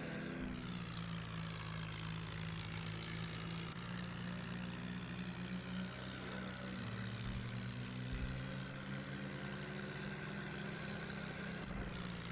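Swaraj 744 tractor's diesel engine running steadily at an even speed.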